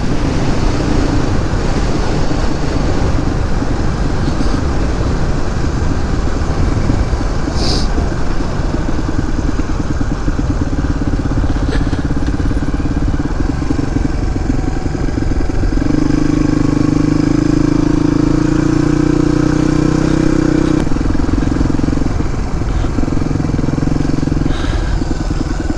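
Suzuki DR250S single-cylinder four-stroke engine running through a Dominator R aftermarket exhaust while the bike is ridden along. The engine note stays steady, then grows stronger for about five seconds past the middle before easing back.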